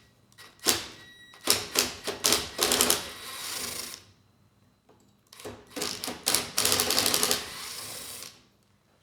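Power driver with a square-drive bit backing out the fasteners that hold a mower's belt guide: two runs of rapid mechanical clatter, each about three seconds long, one for each fastener.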